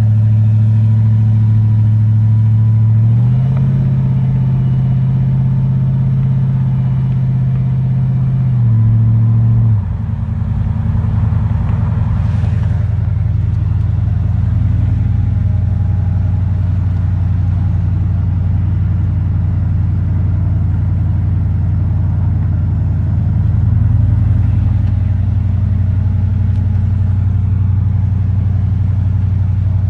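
Supercharged V8 of a 1999 Ford F-150 SVT Lightning running steadily. The engine note steps up in pitch about three seconds in, holds, then drops back shortly before ten seconds, leaving a steady low rumble.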